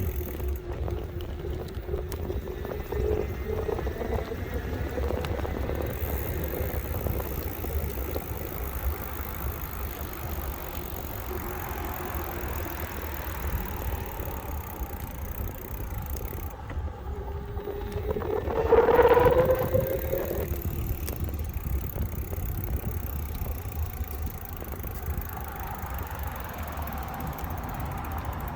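Electric bike riding along: a steady low rumble of wind and rolling noise, with a faint whine that rises in pitch now and then. About two-thirds of the way through, the whine swells briefly louder and climbs.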